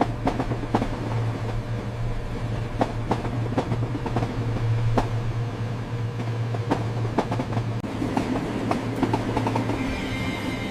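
Train running along the track: a steady low rumble with irregular sharp clacks from the wheels on the rails.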